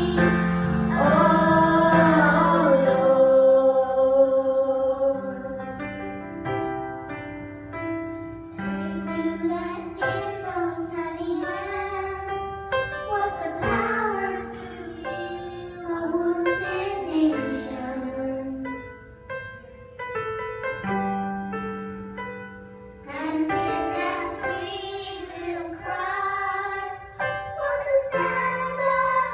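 A solo voice singing a song with piano accompaniment.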